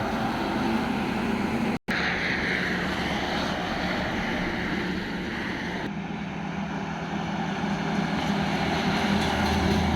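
Steady engine drone, broken by a sudden cut to silence just under two seconds in.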